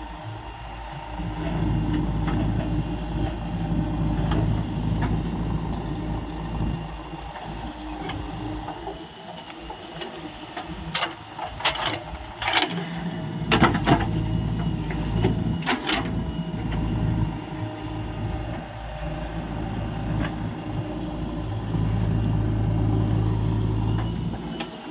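Diesel engine and hydraulics of a JCB 3DX backhoe loader working, the engine note easing off and picking up again, with several sharp metallic clanks about halfway through.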